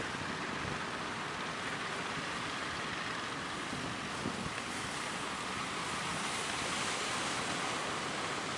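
Steady noise of sea waves breaking, with wind buffeting the microphone.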